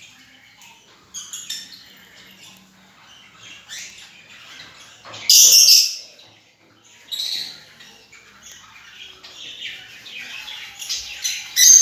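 Pet lovebirds chirping and chattering in short bursts, with a loud harsh squawk about five seconds in and another right at the end.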